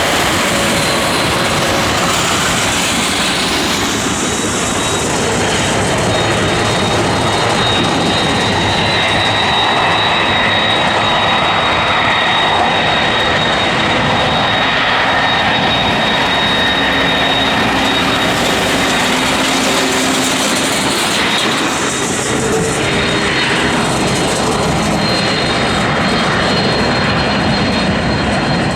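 Airbus A310 twin-engine jet airliner running, a steady loud jet roar with a thin high-pitched whine held over it throughout.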